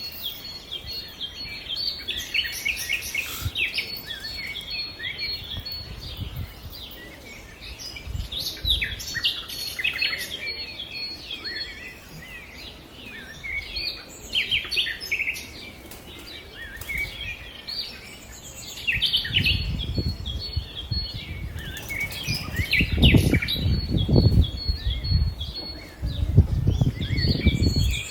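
Small birds chirping continuously. From about two-thirds of the way in, loud low fluttering bursts of wing flapping, typical of pigeons taking off and flying close by.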